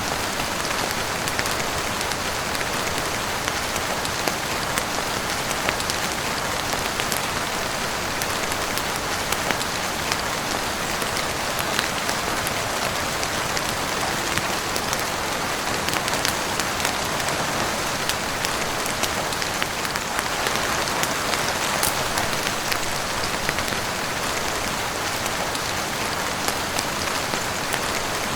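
Steady heavy rain falling on a roof and windows, an even rushing hiss with many scattered sharp ticks of drops.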